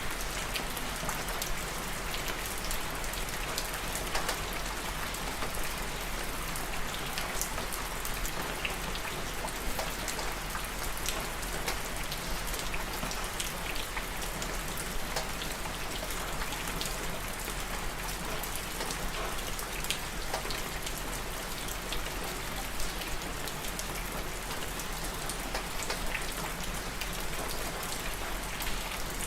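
Steady rain falling on a surface, a continuous hiss with many individual drops pattering throughout.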